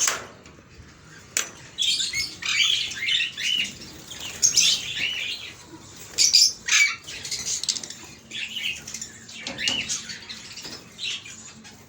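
Caged albino masked lovebirds (Agapornis personatus) chirping and squeaking in many short, high calls, on and off.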